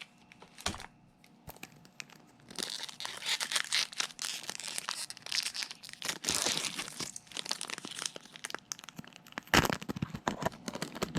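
Foil wrapper of a Pokémon trading-card booster pack being torn open and crinkled by hand: a crackling, rustling run through the middle, with two louder crinkles near the end.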